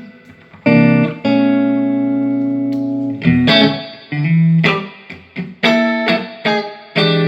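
Electric guitar played through a Peavey Classic 30 tube combo amp, now working after its filter capacitors were replaced. A chord rings for about two seconds, then several more chords are struck in quick succession.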